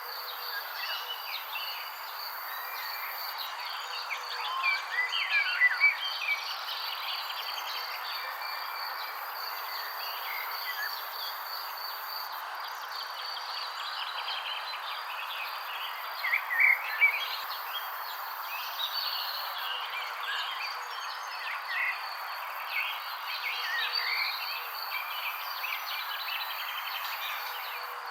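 Wild birds chirping and calling over a steady high-pitched insect chorus, with two busier, louder bursts of calls, about five seconds in and again about seventeen seconds in.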